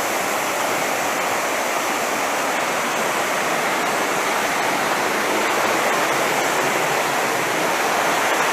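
Waterfall's water crashing down in a steady, loud, unbroken rush.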